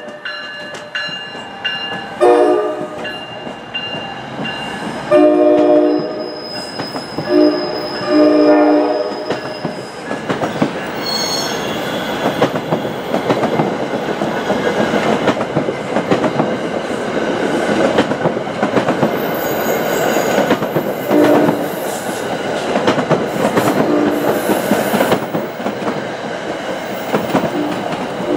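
NJ Transit ALP-46A electric locomotive sounding its horn in a series of long and short blasts, then its Comet V coaches rolling past with clattering wheels and some squeal. Weaker horn notes come back near the end.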